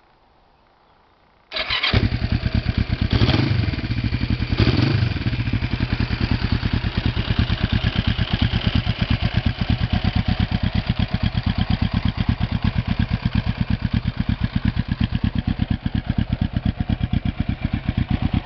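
1991 Kawasaki EN500 Custom's 500 cc parallel-twin engine starting up about a second and a half in, revved briefly twice, then settling into a steady, even idle.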